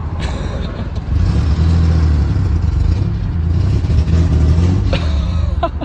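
1985 Nissan 300ZX's V6 engine pulling away, its exhaust swelling louder about a second in and holding as the car accelerates.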